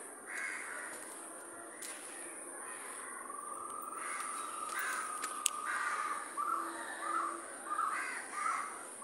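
A bird calling outdoors: a run of short, harsh caws, about two a second, in the second half.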